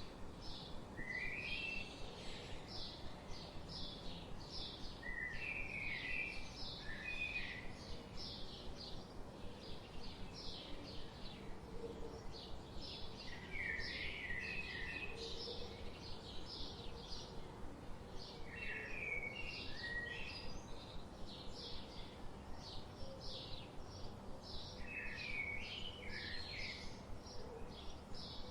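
Forest birdsong: a steady run of short high chirps, about three a second, with a lower warbled phrase repeating every five or six seconds over a faint background hiss.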